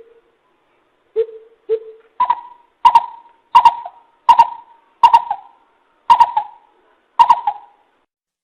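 Coucal (bìm bịp) calling: a series of deep hooting notes, two soft low ones and then about eight louder, higher hoots, evenly spaced about two-thirds of a second apart.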